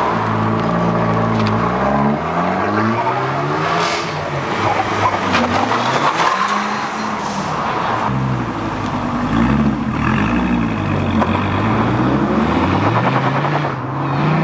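Performance car engines accelerating hard away one after another, the pitch climbing in repeated rising sweeps as each car revs up through the gears, with some tyre noise.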